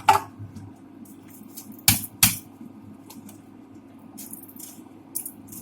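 Kitchen utensils knocking together: a sharp clack at the start, two loud clacks close together about two seconds in, then a few light clicks over a low steady hum.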